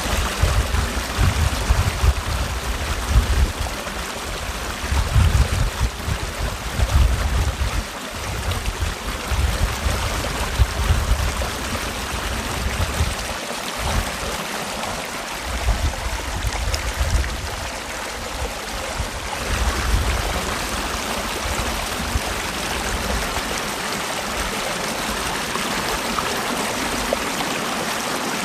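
Mountain valley stream running, a steady full rush of water, with irregular low rumbles through roughly the first twenty seconds.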